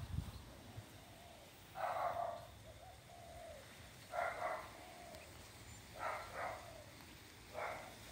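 A bird calling outdoors: four short calls about two seconds apart, the third one doubled.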